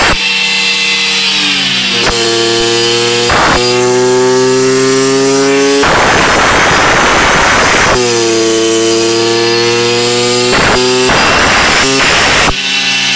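Honda MT8's two-stroke engine with a 113cc Malossi kit, running on a dyno test bench. It is revved repeatedly: the engine note drops away, climbs slowly and drops again, with stretches at high revs where it turns to a harsh rasp.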